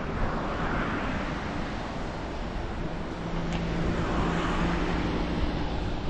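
Road traffic: vehicles passing by on the road, two swelling approaches with a low engine hum in the middle, over steady wind noise on the microphone.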